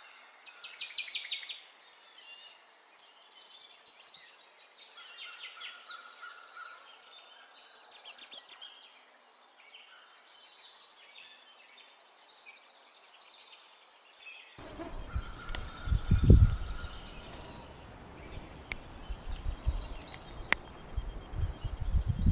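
Small birds chirping in short repeated phrases. About two-thirds of the way through, a low rumbling noise on the microphone starts suddenly and comes in gusts.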